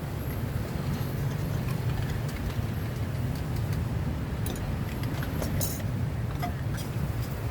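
Steady low rumble of road traffic, with a few faint light clicks and clinks.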